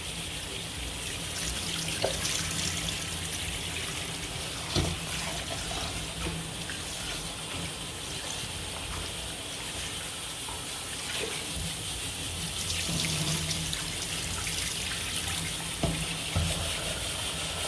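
Water running from a kitchen tap into a sink while rice is washed under it, with a few brief knocks about two, five and sixteen seconds in.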